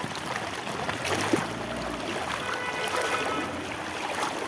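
Steady rush of floodwater after heavy rain, with a low hum from about one to two seconds in.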